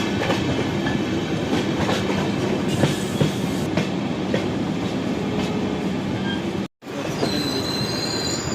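Passenger train running on the rails: a steady rumble with scattered clicks and clatter. After a brief break near the end, a high-pitched steel wheel squeal rings out.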